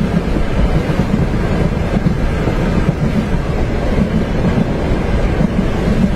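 Steady low rumble of a train running on its tracks, with wind over it.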